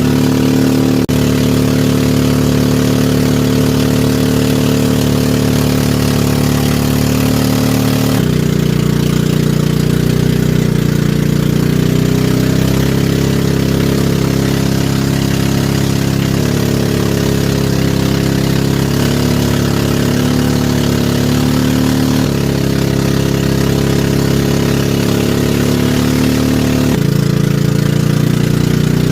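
A small boat's engine running steadily under way, its note shifting abruptly about eight seconds in and again near the end.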